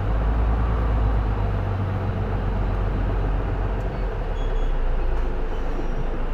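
Diesel engine of a J-Bus PKG-LV234L2 full-size route bus running, heard from inside the cabin as a steady low rumble. The rumble gets louder right at the start and stays up.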